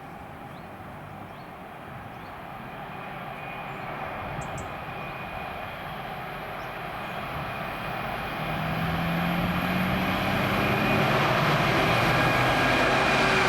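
A train approaching along the line, its noise growing steadily louder, with a steady high whine over it and a low hum coming in about two-thirds of the way through.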